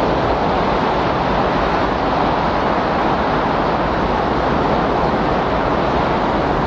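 Windstorm sound: a steady rushing noise that holds an even level, with no gusts or breaks.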